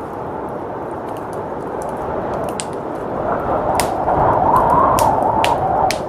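Wood fire crackling, with a few sharp pops, over a steady rush of blizzard wind that swells about halfway through and eases near the end.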